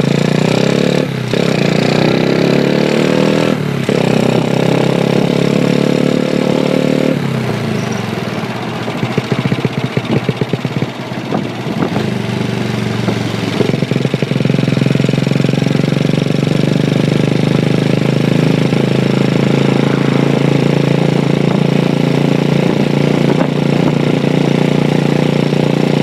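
Honda Chaly minibike running on its swapped-in Honda Wave 100 single-cylinder four-stroke engine while being ridden. The engine note climbs steadily for about seven seconds, drops sharply, runs rough and uneven for several seconds, then settles into steady cruising.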